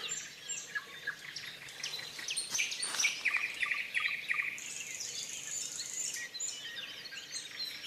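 Songbirds singing and chirping: many short high chirps, a fast run of repeated notes about three seconds in, and a long high whistle around five seconds.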